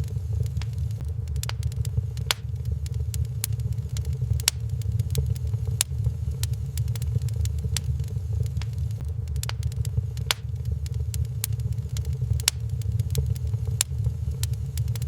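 Wood fire burning in a fireplace: frequent sharp crackles and pops at irregular intervals over a steady low rumble.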